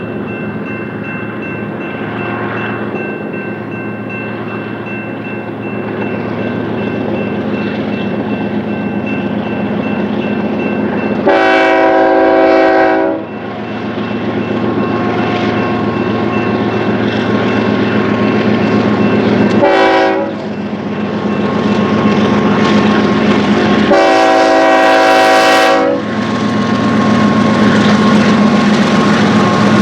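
Freight train led by BNSF diesel locomotive 6877 running past, its engine rumble growing louder. The locomotive horn sounds three times: a long blast, a short one, then another long one.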